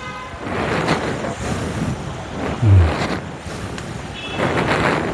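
Street traffic passing close by, mostly motorbikes, in several swells, one low engine sound loudest near the middle, with wind buffeting the microphone.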